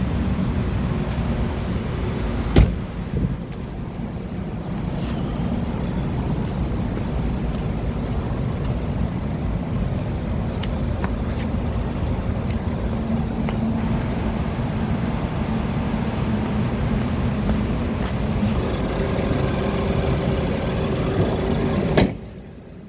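Range Rover Evoque's engine running steadily with a low hum, with a single sharp knock a few seconds in. Near the end a sharp click, after which the sound drops off quickly.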